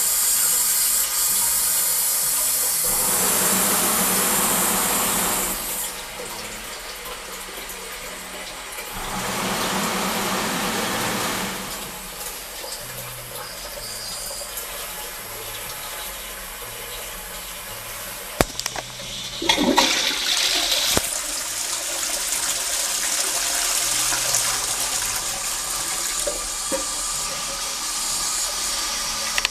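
Trent toilet flushing: a loud rush of water that fades about six seconds in and swells again briefly, then settles to quieter running water. A few sharp clicks come about eighteen seconds in, followed by a short louder gush.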